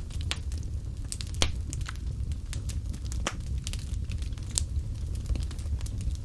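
Wood fire burning in a fireplace: a steady low rumble of flame with irregular sharp crackles and pops, the loudest about one and a half and three seconds in.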